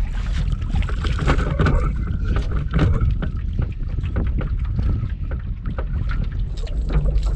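Wind buffeting the microphone as a heavy low rumble, with irregular small clicks and knocks from handling in the rowboat.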